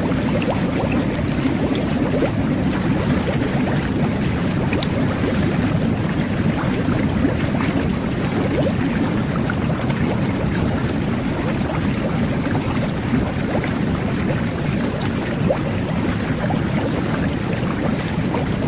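Jetted bubble bath running steadily: water jets churning and bubbling in the tub, with a constant low rumble of turbulent water and many small popping bubbles.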